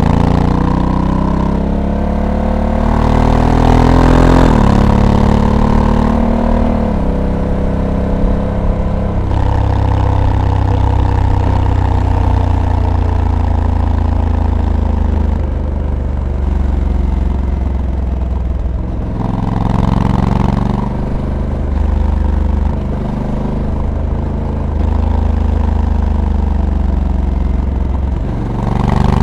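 Honda Africa Twin DCT's parallel-twin engine pulling hard under acceleration, its pitch rising for the first few seconds and then dropping in steps as the dual-clutch gearbox shifts up. It settles to a steadier cruise, with another rise in revs about two-thirds of the way through and again near the end.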